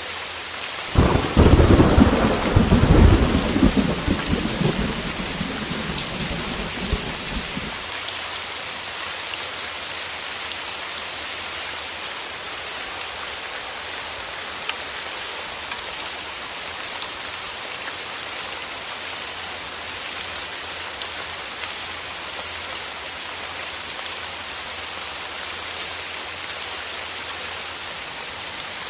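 Steady heavy rain, with a clap of thunder about a second in that rolls and rumbles away over the next several seconds.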